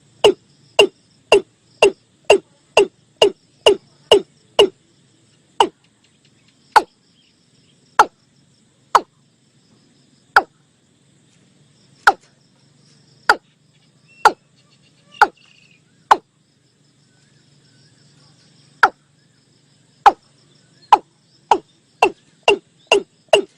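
Watercock calling: a series of short, sharp notes, each dropping in pitch. They come about two a second at first, slow to about one a second or less through the middle, then quicken again near the end. This is a lure call for attracting the birds.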